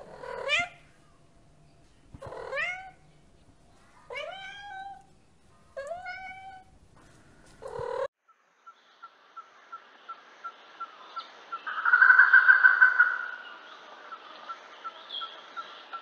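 Domestic tabby cat meowing: four rising-then-falling meows about two seconds apart, then a short call just before the sound changes. After that comes a steady hiss with faint ticks about twice a second, and a louder tone lasting about a second and a half a few seconds later.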